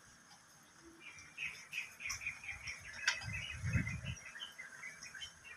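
Small birds chirping, a quick series of short high calls that grows busier after the first second. A short low rumble comes a little past the middle.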